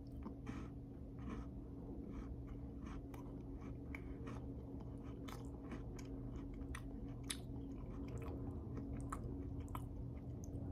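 A person chewing a bite of a Twix cookie-dough candy bar: faint, irregular small crunches and mouth clicks over a steady low hum.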